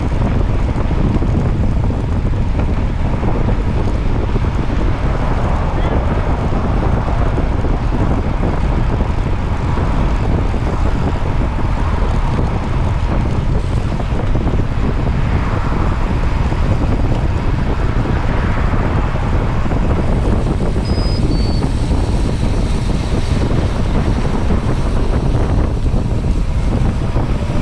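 Wind buffeting the microphone: a loud, steady rumble with a rushing hiss over it.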